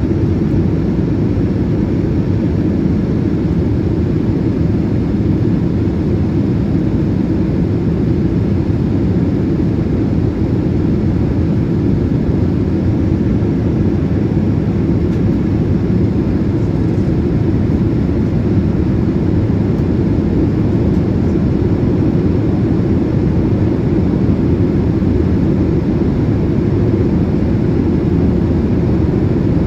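Steady cabin noise of a Boeing 787-8 airliner in flight, the engine and airflow noise holding even, deep and unchanging throughout.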